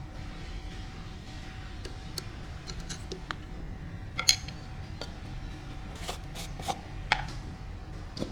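A handful of sharp metallic clinks and taps, as from tools and metal parts being handled, over a steady low hum. The loudest clinks come about four seconds in and about seven seconds in.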